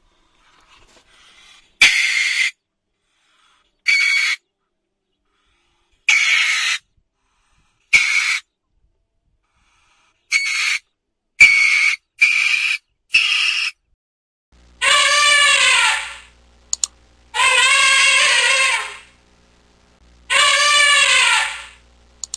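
Animal calls: a run of short, high squeaks, one every second or two, then three long, loud calls rich in overtones that rise and fall in pitch, each about a second and a half.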